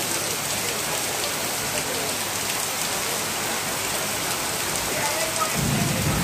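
Heavy rain pouring down steadily, with a low rumble swelling up near the end.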